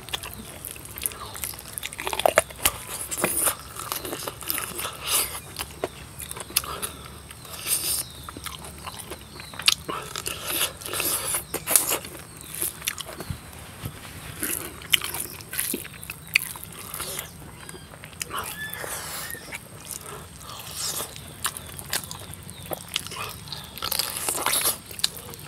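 Close-up chewing, biting and lip-smacking of a person eating pork and rice by hand: irregular wet clicks and crunches.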